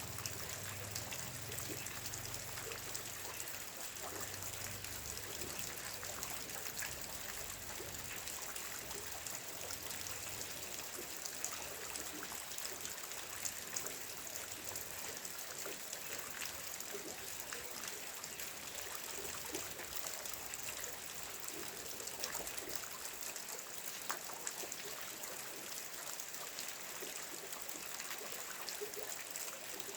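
Steady rain with trickling runoff: an even hiss full of small, scattered drop ticks.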